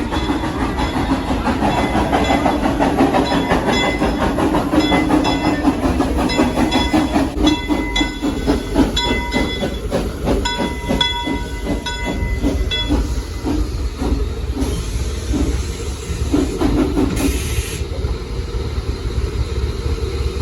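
Steam locomotive No. 504 hauling the train: a steady running rumble with a stretch of rhythmic clatter in the middle and a short hiss of steam near the end.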